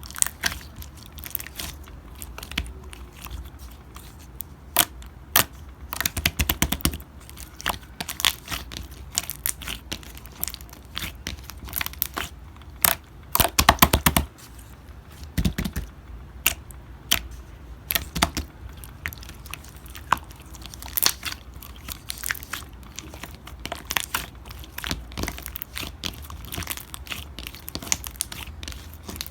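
Slime being pressed, poked and stretched by hand, giving irregular sharp clicks and crackling pops, with dense clusters about six seconds in and again around thirteen seconds.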